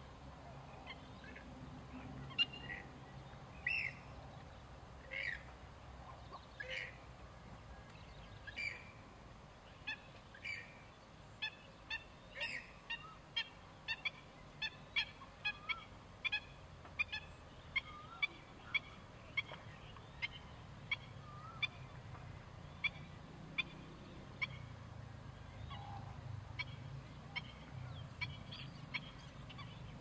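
Wading birds calling: short, sharp calls, every second or two at first, then repeated about twice a second from around ten seconds in.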